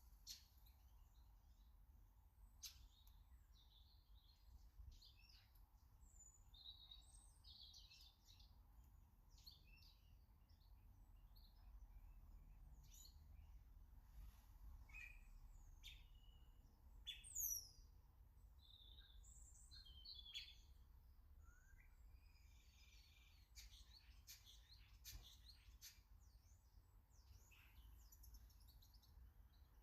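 Faint garden birds calling and chirping: many short high chirps and twitters, with one louder high call sweeping downward about 17 seconds in.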